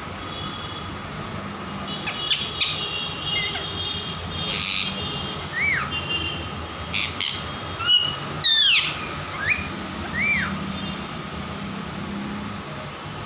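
Pet parrot giving a scattered series of short squawks and chirps, several of them sweeping up and then down in pitch, over a steady low background hum.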